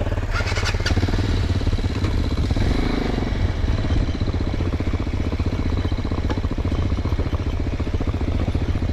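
Mondial Extreme Max 200i motorcycle engine running steadily at low speed, with a couple of sharp clicks about half a second to a second in.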